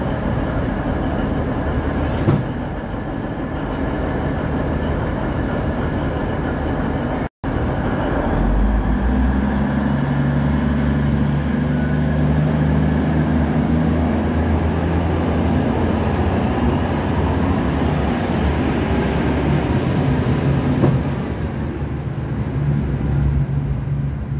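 V/Line VLocity diesel multiple unit running past at close range: a steady diesel engine drone with wheel and rail noise. The sound breaks off briefly about seven seconds in, then a deep, steady diesel hum carries on.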